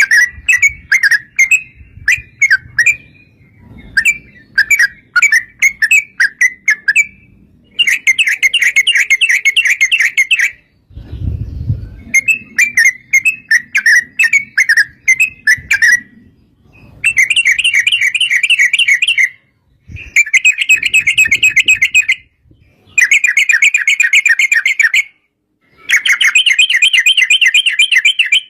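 Yellow-vented bulbul (trucukan) singing: loud phrases of rapid chattering notes, several of them long, fast, even rolling trills, each a few seconds long and separated by short pauses. A brief low rumble comes about eleven seconds in.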